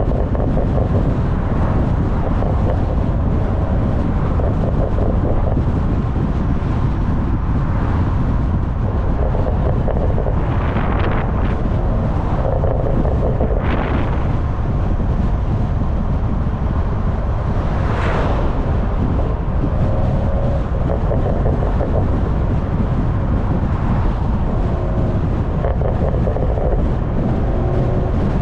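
Heavy wind buffeting on a microphone at the rear of a moving car, over the steady drone of a BMW M340i's turbocharged B58 straight-six exhaust. Three brief rushing sounds come around the middle.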